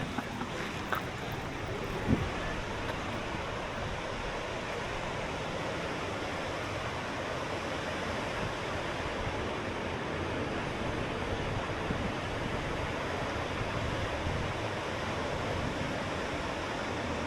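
Steady rushing wind noise on the microphone while cycling, with a short knock about two seconds in.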